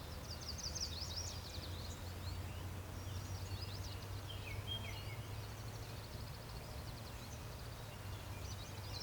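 Songbirds singing in bursts of rapid, high chirping trills, strongest in the first couple of seconds and again about four seconds in, over a steady low hum.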